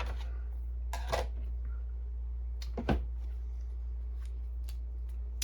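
A few light clicks and rustles from handling a plastic ink cartridge and refill parts, over a steady low hum.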